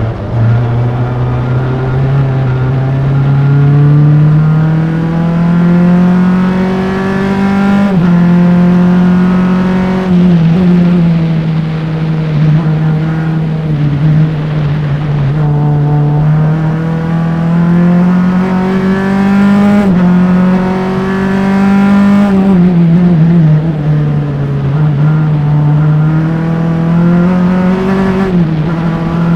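Single-seater race car engine at racing speed, heard close up from engine-mounted microphones. Its note climbs steadily under acceleration and drops sharply several times at gear changes and braking zones, then climbs again.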